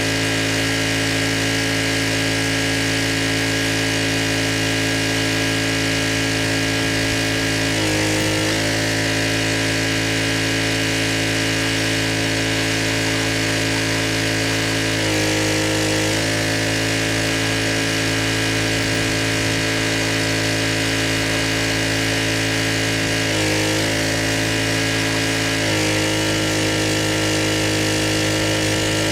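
Pressure washer engine running steadily, its tone shifting briefly several times and changing for good about three-quarters of the way through.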